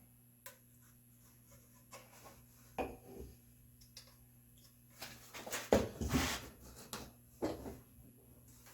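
Red oak workpieces being handled and worked: a few light wooden knocks, then about five seconds in a louder stretch of rough wood scraping and rubbing lasting around two seconds, with another knock after it.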